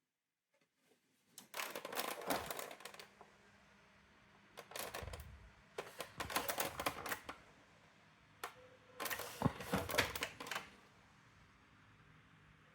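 Several bursts of rapid clicking and rattling from a Brother AX-425 electronic typewriter, with short pauses between them and a single click in the middle.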